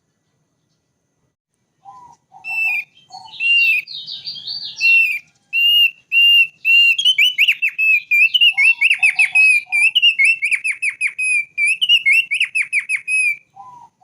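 Thick-billed white-eye (opior paruh tebal) singing. After about two seconds of silence it gives a string of clear whistled notes, then a fast run of sharp down-slurred notes, with a few short lower notes in between. The song stops shortly before the end.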